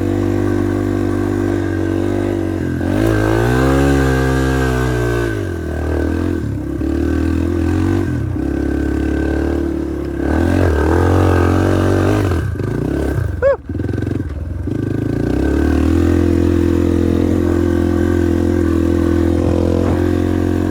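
Yamaha TT-R230 dirt bike's single-cylinder four-stroke engine running on a trail ride, the revs climbing and falling several times as the throttle is rolled on and off over the hills, with a brief sharp drop about two-thirds through. On the last climb the engine bogs a little.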